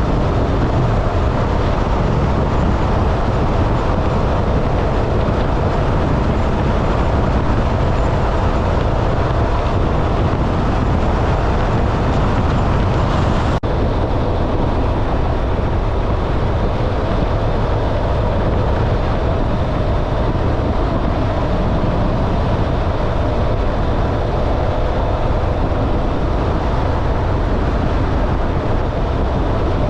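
Wind and road noise from a motorcycle riding at steady highway speed, with a faint steady engine note under it.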